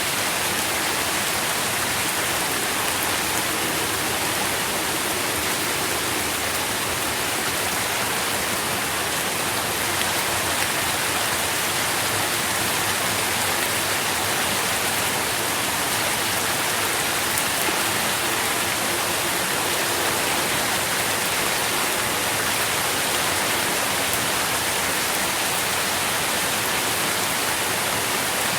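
Steady rain falling, a dense even hiss of drops with no breaks.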